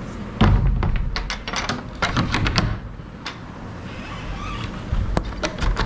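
A run of sharp clicks and knocks in two clusters, the first from about half a second in and the second near the end, over a steady low hum.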